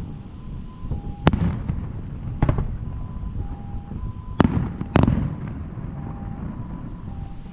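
Fireworks shells bursting in the sky, with four sharp bangs and a low rumble after each. Short steady tones sound on and off between the bangs.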